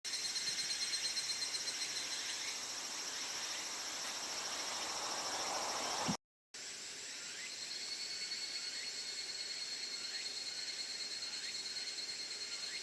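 Steady chorus of insects, several shrill high tones held without a break. About six seconds in, a swell of noise ends in a sharp knock just before the sound cuts out briefly.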